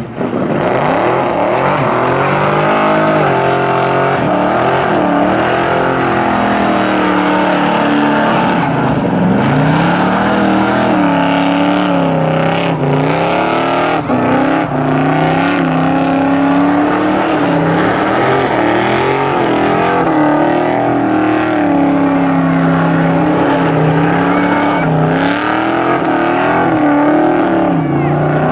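Muscle car V8 engine at high load, its pitch rising and falling again and again as it is revved and driven hard.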